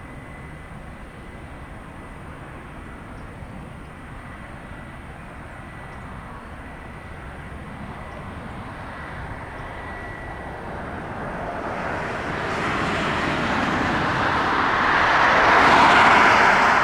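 Jet airliner engines passing close by, a rushing roar that builds steadily over the second half and peaks just before the end.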